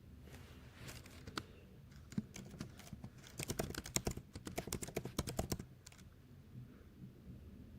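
Typing on a computer keyboard: a few scattered keystrokes, then a quick run of keys for about two seconds, stopping well before the end.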